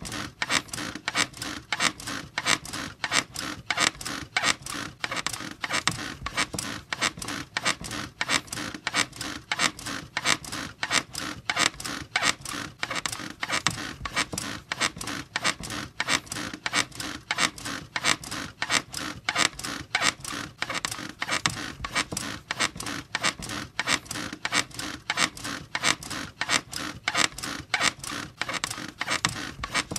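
Bed squeaking in a steady, even rhythm, two to three squeaks a second, repeated without a break.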